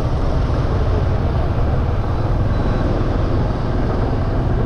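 Steady low rumble of wind and road noise while riding a motorbike.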